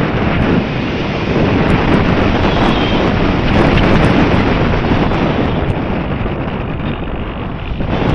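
Wind buffeting the microphone: a loud, steady rush of noise that eases a little about six to eight seconds in, then picks up again.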